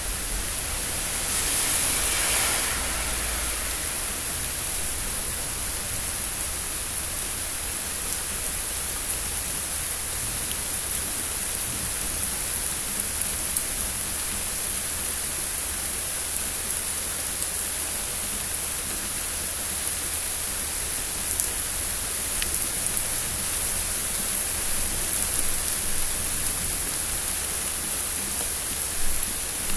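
Steady rain falling during a thunderstorm, an even hiss with scattered small drip ticks. About two seconds in it swells louder for a second or two, with a faint low rumble.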